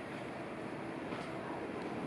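Steady outdoor background noise with a faint low hum; no clear bird call stands out.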